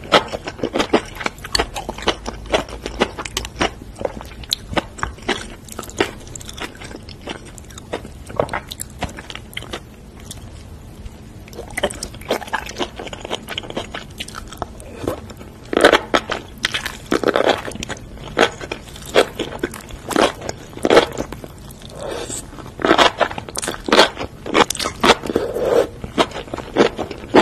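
Close-miked chewing and biting of enoki mushrooms in spicy chilli sauce: a steady run of small wet clicks and crunches, with louder wet mouthfuls in clusters around the middle and again near the end.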